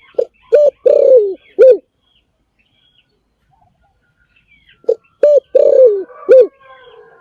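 Spotted dove cooing: two phrases of four low notes each, about four seconds apart, with faint chirps of small birds in between.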